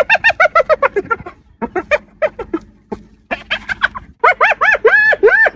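Spotted hyena giggling: runs of short, high-pitched yelping notes, several a second, broken by brief pauses. From about four seconds in, the notes get longer, each one rising and then falling in pitch.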